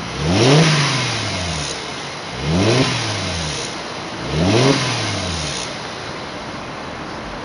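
Turbocharged car engine blipped three times, about two seconds apart, its pitch rising and falling back each time, with the turbo's whistle and hiss rising with each rev and settling to idle between.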